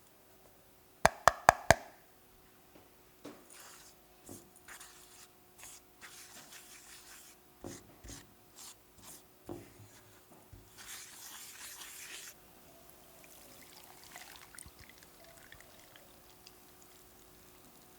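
Kitchen handling sounds: four quick sharp taps about a second in, then scattered scraping and rubbing of utensils and containers, with a faint steady hum underneath.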